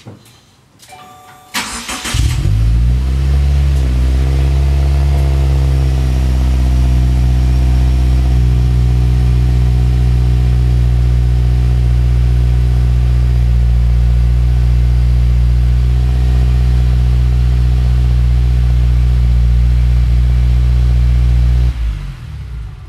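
2015 Subaru WRX's turbocharged 2.0-litre flat-four, fitted with the STI catback exhaust, starting: a brief starter crank about a second and a half in, the engine catches, its idle settles lower over the next few seconds, then it idles steadily until it is switched off near the end.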